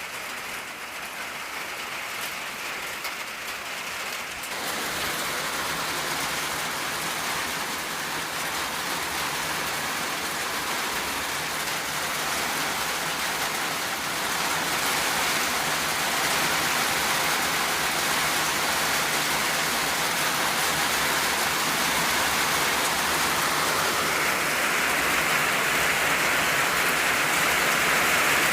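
Rain falling on an old tin roof, a dense steady patter that grows heavier about four seconds in and keeps building towards the end.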